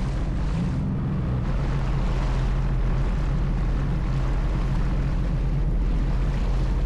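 Sea-Doo jetski engine running at a steady low speed, with water noise from the hull and some wind on the microphone.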